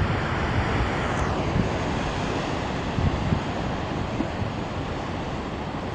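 Ocean surf: a steady rush of big swells breaking on the rocky shore, with wind buffeting the microphone.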